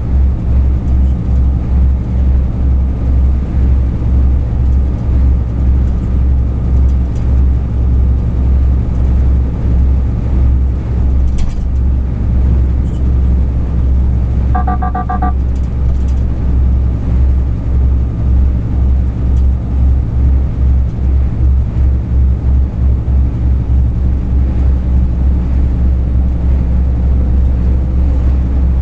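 Truck driving on the road: a steady, loud low engine and road rumble with a pulsing throb. About halfway through comes a short run of electronic beeps lasting about a second.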